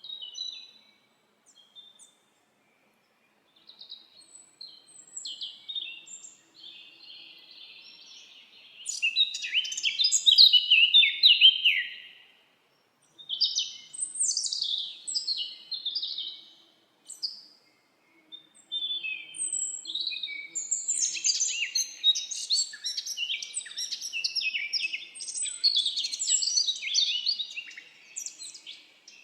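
Songbirds singing: bouts of chirps and trills with short pauses between them, busiest and loudest in the middle stretch and again through the second half.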